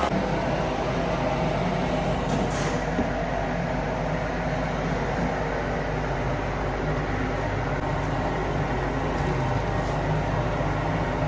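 Steady running noise of tyre-factory machinery, a constant rumble with a low hum and a few faint clicks.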